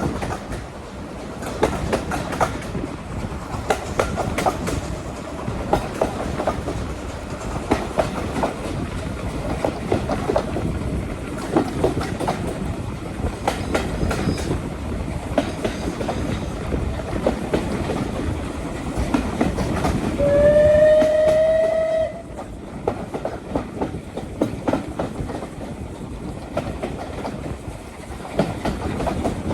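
Railway carriage running along the line, a steady rumble with wheels clicking over the rail joints. About two-thirds of the way through, the locomotive sounds one blast just under two seconds long, its pitch rising slightly, the loudest sound here.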